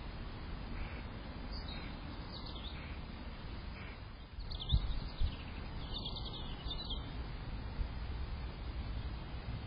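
Small garden birds chirping in short high calls, in several clusters through the middle, over a steady low background rumble, with two dull thumps about halfway through.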